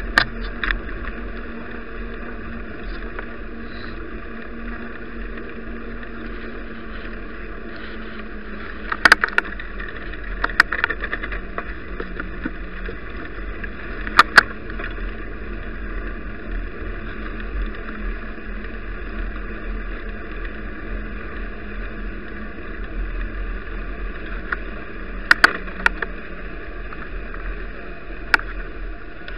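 Steady muffled rumble of a bicycle ride picked up by an action camera, with a few sharp knocks and rattles as the bike goes over bumps.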